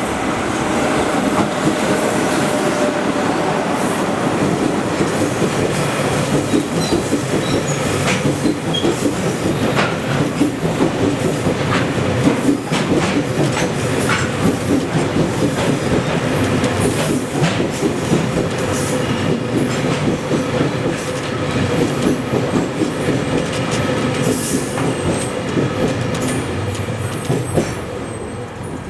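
Freight train of container wagons rolling steadily past at close range, a dense clatter of wheels over rail joints with a faint thin squeal from the wheels.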